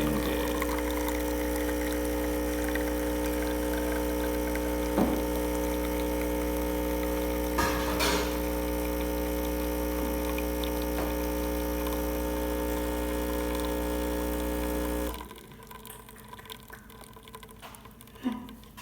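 DeLonghi Perfecta espresso machine's vibratory pump running steadily during a test brew, with coffee pouring from the spout. The pump cuts off suddenly about fifteen seconds in, leaving a quieter stretch with a few small clicks.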